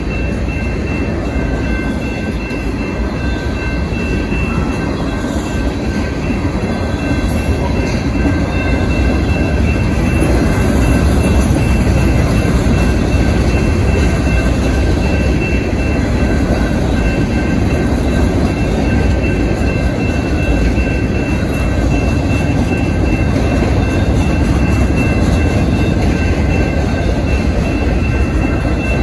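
Freight cars of a Canadian National train rolling past: the steady rumble of wheels on the rails, growing a little louder about ten seconds in, with a thin steady high tone running through it.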